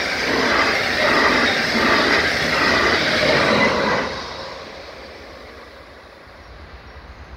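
Double-deck regional passenger train with an electric locomotive passing close by: a loud rolling rush of wheels on rails with a regular rhythm from the passing wheelsets. The sound drops off sharply about four seconds in as the locomotive at the rear clears the crossing, then fades away.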